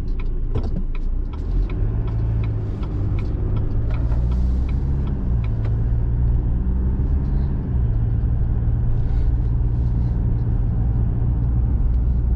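A small truck's engine and tyre rumble heard inside the cab, with the turn signal ticking about three times a second for the first five seconds or so, then only the steady drone.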